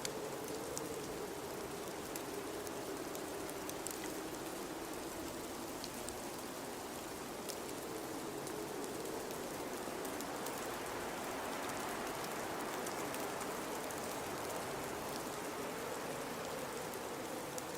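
Blizzard wind howling, its pitch slowly wavering up and down, over a steady hiss of blowing snow, with faint scattered ticks.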